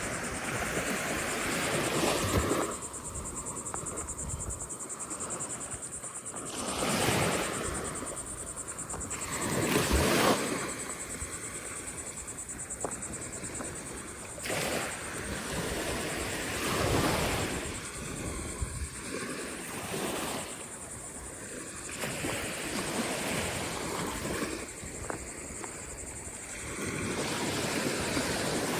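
Ocean surf breaking and washing up the shore, swelling and fading every few seconds.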